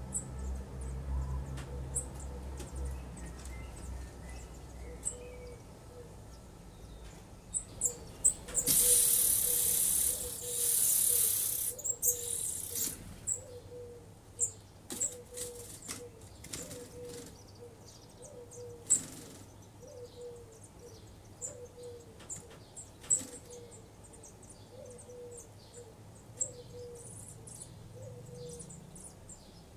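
Birds calling: a soft low note repeating a little more than once a second and scattered thin, high chirps. About nine seconds in, a loud hissing rush of noise lasts about three seconds.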